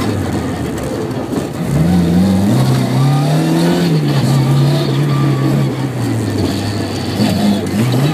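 Car engine heard from inside the cabin, revving and easing off as it is driven hard around a tight course. The pitch drops in the first second, climbs sharply just before two seconds in, and then rises and falls again.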